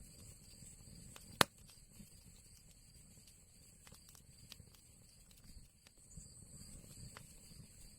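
Fire crackling in an old chimney: scattered small crackles and snaps over a low rumble of flame, with one sharp loud pop about a second and a half in.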